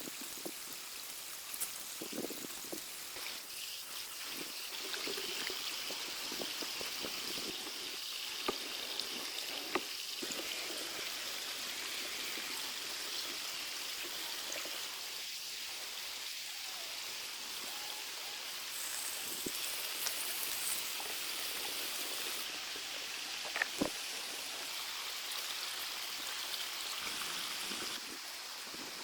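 Stream water flowing steadily, with a few sharp knocks or clicks over the top.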